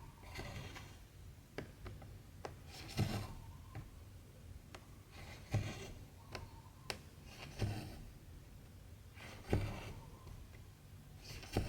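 Cotton embroidery thread being drawn through cross-stitch fabric, a rustling pull with a soft knock about every two seconds, and small sharp clicks of the needle piercing the cloth in between.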